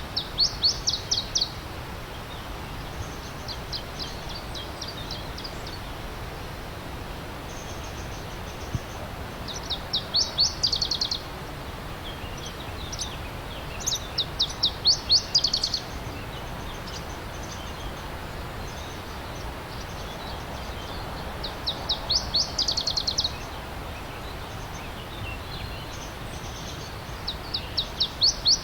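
A songbird repeating a short song of quick, high, sharply falling notes, about six phrases several seconds apart. Under it, the steady rush of a running stream.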